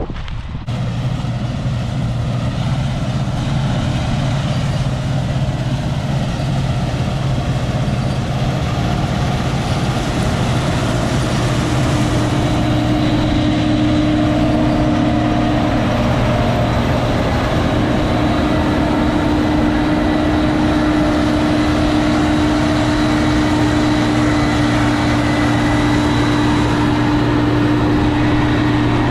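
Heavy farm machine engine running steadily, with a continuous low hum and a faint higher whine.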